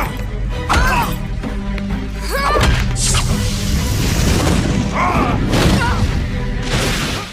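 Black Canary's sonic scream, the Canary Cry, as a cartoon sound effect: a loud, wide blast through the middle, with short pitched cries, booms and shattering over dramatic action music. It cuts off abruptly at the end.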